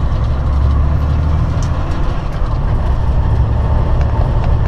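Semi-truck's diesel engine and road noise heard from inside the cab while driving: a steady, deep drone.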